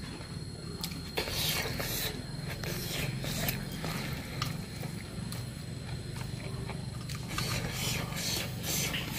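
Close-up eating sounds: steady chewing, with bursts of fingers scraping and mixing rice on a steel plate, about a second in, around three seconds, and again near the end.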